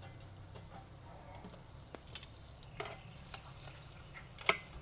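Kitchen utensils clinking against cookware while fried food is handled: a few sharp clinks, the loudest near the end, over a low steady hum.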